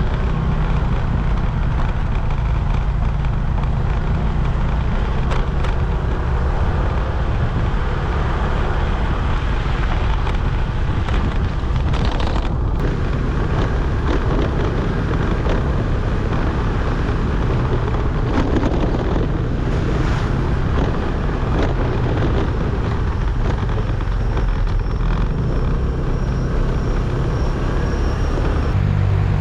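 Scooter riding at a steady speed, its small engine running under heavy wind noise on the microphone.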